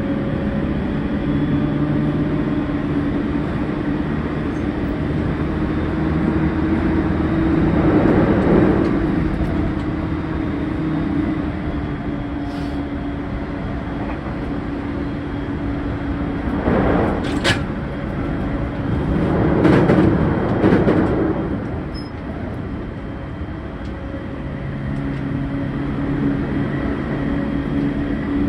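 JR E231-0 series electric train running at speed, heard from aboard the motor car, with a steady hum from the traction motors and gears over the rush of wheels on rail. The hum fades out about a third of the way in and comes back near the end. The rail noise swells up loudly three times in between.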